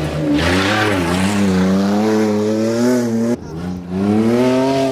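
Off-road 4x4 engine revving hard under load, its pitch climbing and sagging. It cuts off abruptly about three and a half seconds in, then picks up and revs again.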